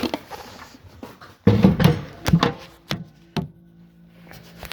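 Handling knocks and clicks of a Singer sewing machine and its wooden cabinet table, with a heavy thump about a second and a half in and several sharp knocks after it, then a faint steady hum.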